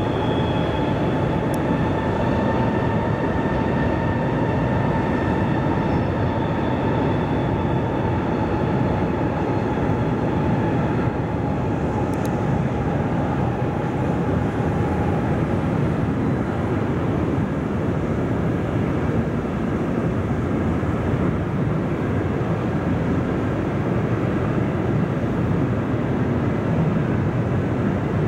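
Container freight train rolling across a steel truss bridge: a steady rumble of the wagons, with a high whine over it that fades out about halfway through.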